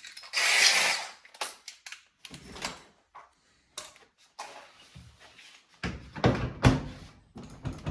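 Handling noise of the dryer being closed up: a scraping rush lasting about a second near the start, scattered clicks, then a run of knocks and thumps near the end, like panels and the door being pushed shut.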